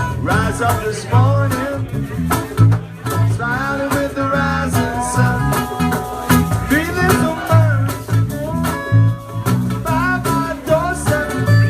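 Live band playing an instrumental passage: a bending melodic lead line over bass guitar and drums.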